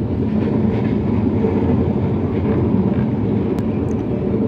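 Broad-gauge passenger train running, heard from inside an LHB coach: a steady rumble of wheels on rail with a faint hum, and a couple of light clicks near the end.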